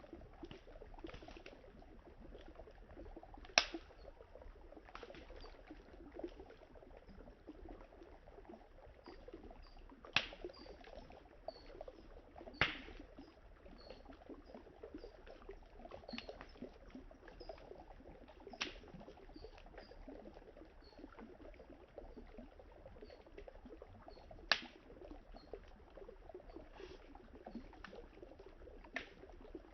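Wood campfire crackling, with half a dozen sharp pops spread through and many small ticks between them, over the steady run of river water.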